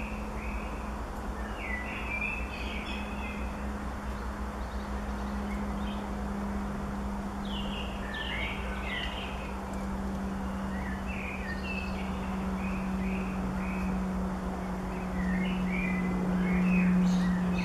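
Small birds chirping and calling in short, scattered phrases, over a steady low hum that grows louder over the last few seconds.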